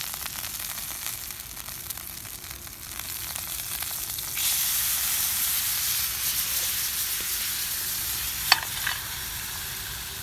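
Food sizzling in a pan over a campfire, the sizzle stepping up louder about four seconds in, with a sharp click near the end.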